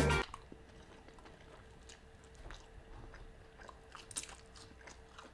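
Close-up chewing of crispy Nashville hot fried chicken: scattered soft crunches of the fried skin and mouth sounds, with the loudest crunches about four seconds in.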